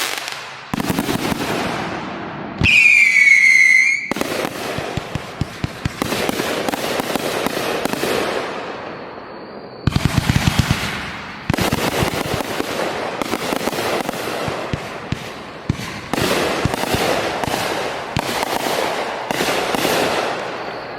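Fireworks display: a dense run of crackling shell bursts and sharp pops. About three seconds in, a loud whistle falls in pitch for about a second, and a quick string of sharp bangs comes about ten seconds in.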